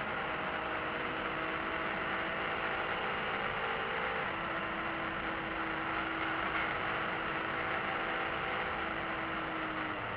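BMW E46 M3's inline-six running steadily at speed, heard from inside the cabin under heavy wind and road noise. The engine note changes about four seconds in.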